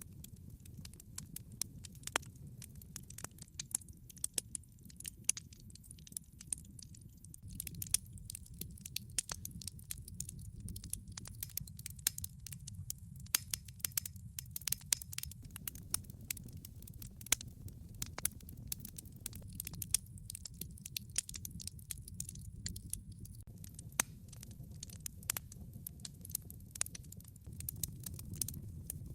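Wood fire burning in a fireplace, with many sharp irregular crackles and pops over a steady low rumble of the flames.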